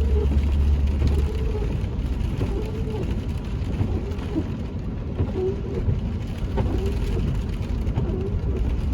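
Inside a car's cabin: steady engine and tyre rumble on a slushy, icy road. Over it, the windshield wipers sweep back and forth about once a second.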